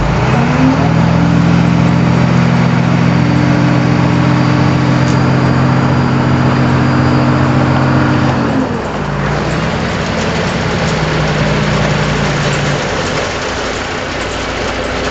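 Komatsu D31 bulldozer's diesel engine revving up and running hard with a steady drone, then dropping to a lower pitch about eight and a half seconds in and running on more lightly.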